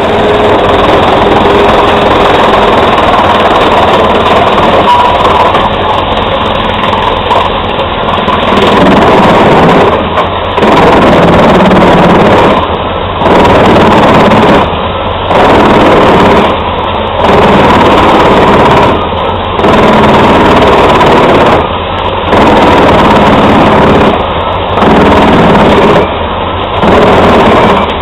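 Truck-mounted drum chipper, driven by the truck's MAN engine, running loudly while chipping wood. Its noise is steady at first, then about a third of the way in it starts swelling and dipping in a regular pattern roughly every two seconds.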